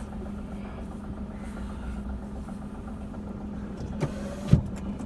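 Car engine idling with a steady low hum, heard from inside the cabin. Two sharp knocks about four seconds in, the second the louder.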